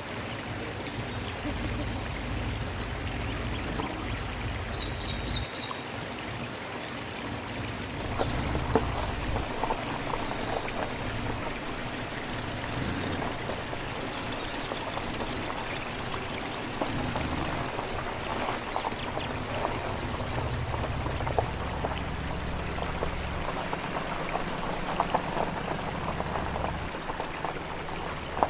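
Mountain stream flowing steadily, with a few short high chirps in the first several seconds.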